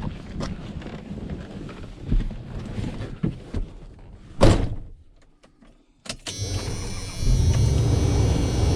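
A truck running with a steady engine drone that starts about six seconds in and grows louder a second later, after a stretch of scattered knocks and one sharp knock a little past four seconds in.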